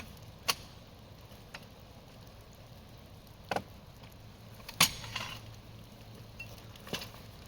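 A few separate clicks and knocks over faint steady background noise, the loudest about five seconds in.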